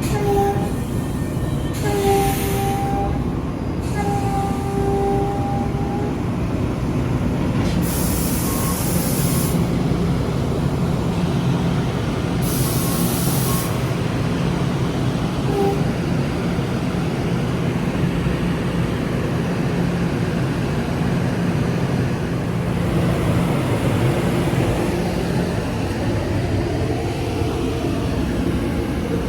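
NJ Transit train running past with a steady rumble. Its horn sounds three times in the first six seconds, the last blast the longest, and gives a brief toot again about sixteen seconds in. Two short bursts of hiss come about eight and thirteen seconds in.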